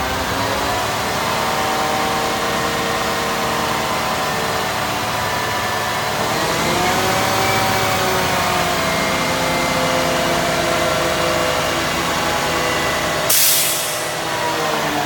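Hooklift truck's engine running, its pitch rising about six seconds in and settling back down. A short, sharp hiss of air comes near the end.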